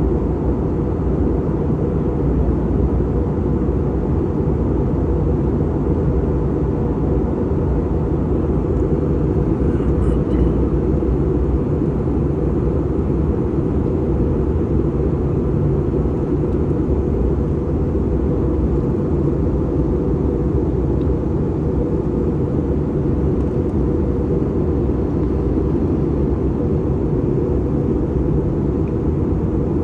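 Airliner cabin noise in flight: a steady, unbroken low rumble of engines and rushing air, heard from inside the cabin.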